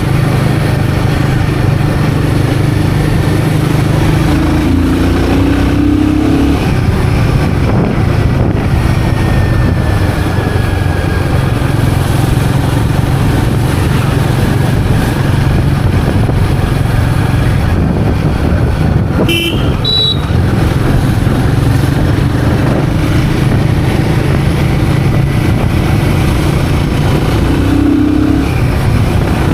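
Royal Enfield Guerrilla 450's single-cylinder engine running steadily under way, with wind and road noise. The engine note shifts about five seconds in and again near the end. A brief high-pitched chirp sounds about two-thirds of the way through.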